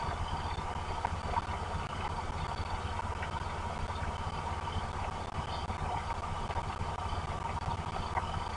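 Heavy rain falling: an even hiss with scattered sharp drop ticks over a steady low rumble.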